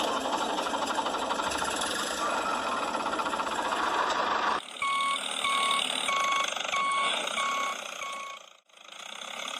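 A tractor engine running with a dense, rattly noise that stops abruptly after about four and a half seconds. A reversing alarm then beeps six times at an even pace, about one beep every 0.6 s.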